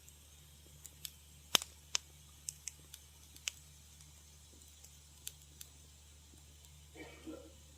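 Wood fire crackling in a fireplace: scattered sharp pops, the loudest about a second and a half in, growing sparse after the first few seconds, with a brief soft rustle of flame near the end over a steady low hum.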